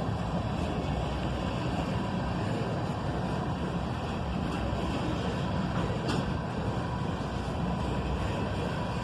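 Tank cars of a CSX ethanol freight train rolling past, a steady rumble of steel wheels on rail, with a short click about six seconds in.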